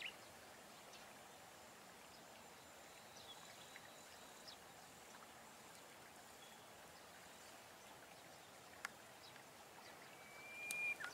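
Quiet outdoor ambience with a faint steady hiss and a few faint, thin bird calls, then a quick run of louder chirps near the end.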